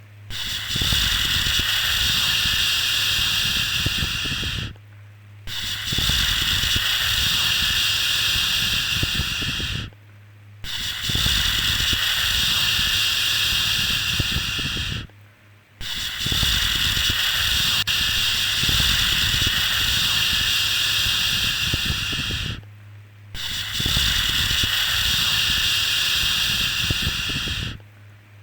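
A long, steady 'shhh' shushing sound for soothing a baby, repeated about every five seconds with brief pauses between, over a faint low hum.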